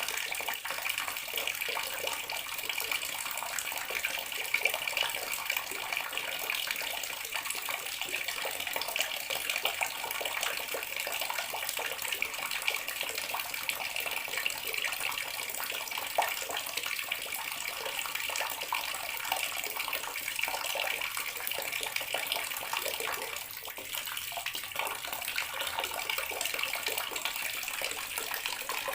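Water tap running steadily into a bathroom sink, a continuous splashing stream with a brief slight dip about three quarters of the way through.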